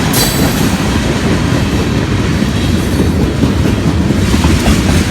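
Freight train cars rolling past close by: a loud, steady rumble with wheel clatter over the rail joints and a brief high screech right at the start.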